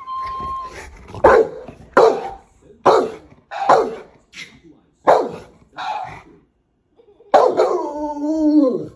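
A dog barking about seven times at an even pace, then one longer drawn-out howl-like call that drops in pitch at the end.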